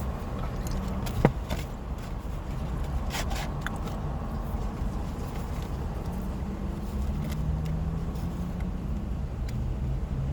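Steady low rumble of a car, heard from inside it, with one sharp click about a second in and a few lighter clicks a couple of seconds later.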